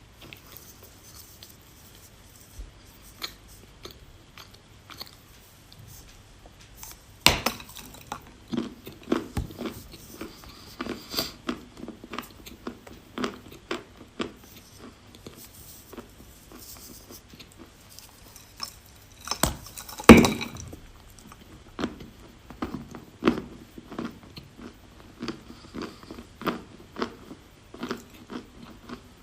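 Chalk bitten and chewed close to the microphone: a loud crisp bite about seven seconds in and another about twenty seconds in, each followed by rapid crunchy chewing.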